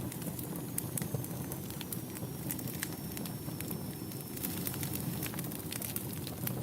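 Wood fire in a fireplace crackling, with frequent sharp irregular pops over a steady low rush of flames. A faint, thin, high whistle slides slightly downward from about a second in until about five seconds in.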